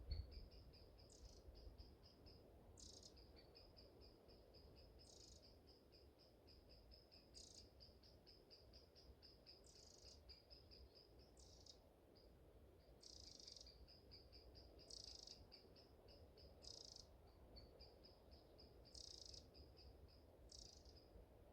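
Faint, high-pitched chirping: a steady run of rapid pulses, several a second, with a louder rasping chirp about every two seconds. A low wind rumble lies underneath.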